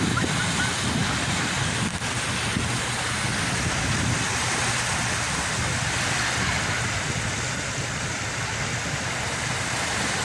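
Steady rush of sea water and surf, an even noise without distinct wave breaks, with a low rumble underneath.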